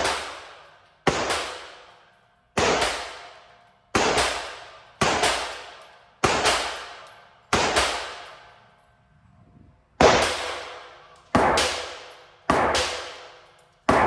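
Gunshots, most likely pistol, fired one at a time about once a second, each with a long echoing tail. About eleven shots, with a pause of two seconds or so in the middle.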